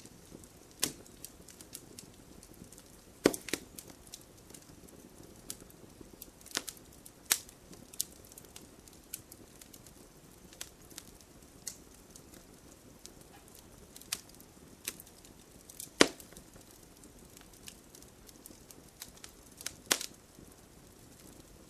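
Wood campfire burning with a soft steady hiss and irregular sharp pops and crackles, a few louder snaps standing out.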